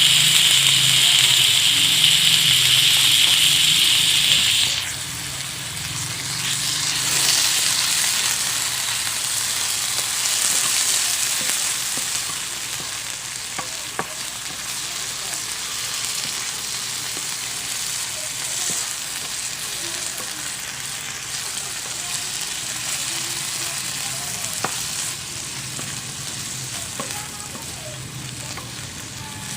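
Corned beef and beetroot sizzling in margarine in a frying pan, stirred with an occasional tap of the spatula. The sizzle is loud for about the first five seconds, then drops suddenly to a softer, steady sizzle.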